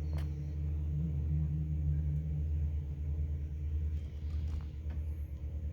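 Steady low rumble of an idling engine, a constant deep hum that eases slightly after about four seconds.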